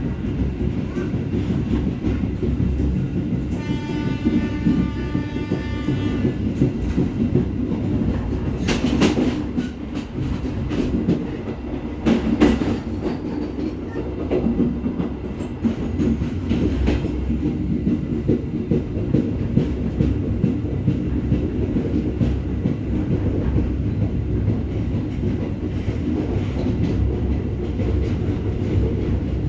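Serayu passenger train running on the rail with a steady rumble of wheels on track. Its horn sounds once for about two and a half seconds a few seconds in. The wheels give louder clacks twice, around nine and twelve seconds in.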